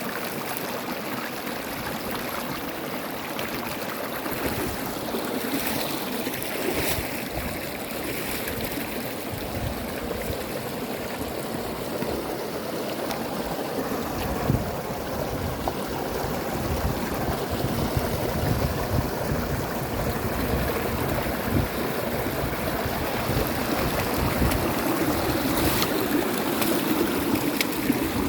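Stream water running and rushing steadily, with a low rumble growing in the second half.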